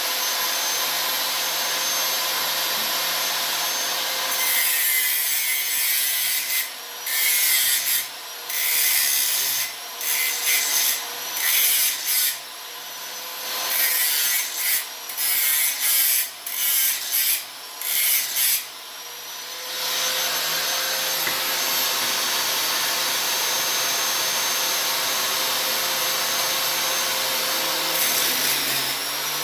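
Angle grinder running with its guard off, whining steadily at free speed, then grinding a piece of steel in a series of short passes from about four seconds in to about twenty seconds, its motor note dropping under each load. It then runs free again, with another brief touch near the end.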